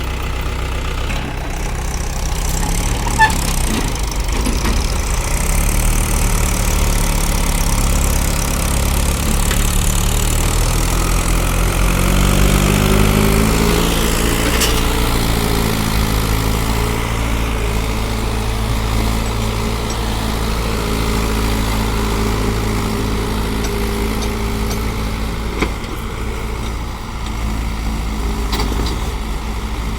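Tractor diesel engines running under load while pulling a stuck tractor and its loaded trailer out. The engine pitch rises about a third of the way in and then holds steady.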